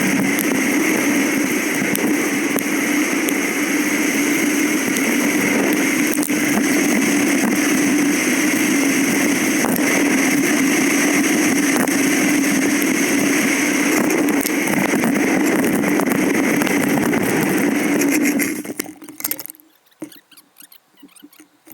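Motorcycle engine running steadily at a constant pitch, then shut off about 18 seconds in, dying away within a second to a few faint clicks.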